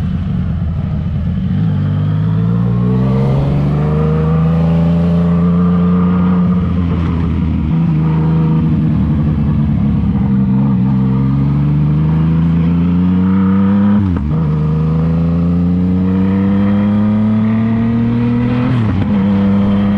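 Yamaha MT-09's remapped inline three-cylinder engine accelerating hard, its pitch climbing through several gears with a brief drop at each upshift, clearest about two-thirds through and near the end.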